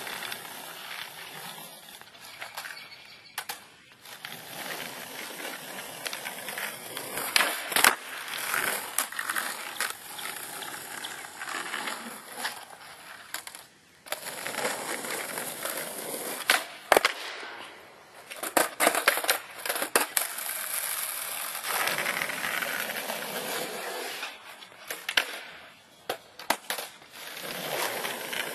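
Skateboard wheels rolling over a concrete driveway, broken by sharp wooden clacks of the tail popping and the board slapping down on landings and bails during flip-trick attempts.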